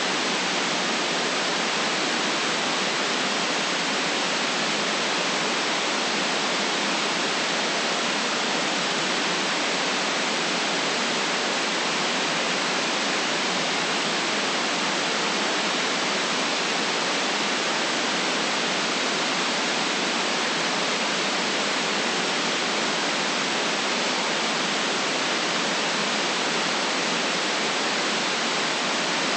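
Steady synthetic white noise, an even hiss with no changes, cut off below about 150 Hz and above about 9 kHz.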